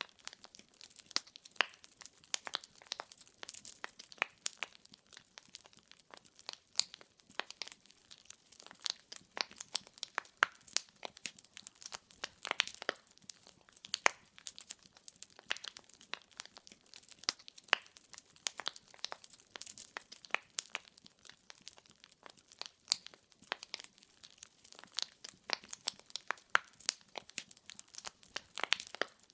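Firewood logs burning in a fireplace, crackling and popping continuously with many sharp irregular snaps.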